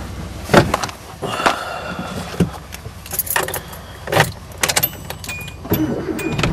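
Keys jangling and a string of sharp clicks and knocks, about one a second, as a 2008 Kia Rio is readied for a cold start. A few short thin tones sound near the end.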